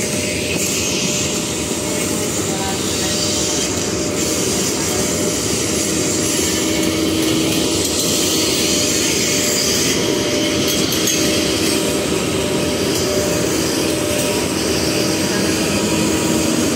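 Electric passenger locomotive and coaches rolling slowly through a station, giving a steady rumble of wheels on the rails. A steady hum runs through the second half.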